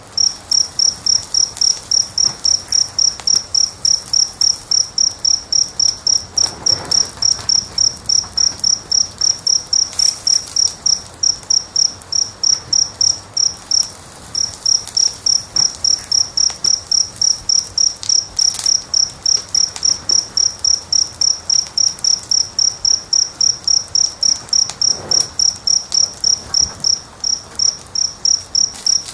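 A cricket chirping steadily, a high clear chirp about four times a second, with one short break about halfway through. Underneath are faint crackles and the odd pop of a wood fire.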